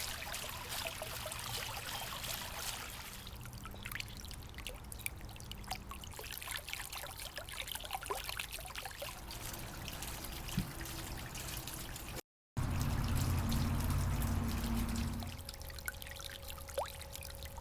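Water trickling and splashing over a small decorative rock waterfall, with many little drips and plinks. The sound cuts out for a moment about two-thirds through and comes back fuller and louder for a couple of seconds before easing off.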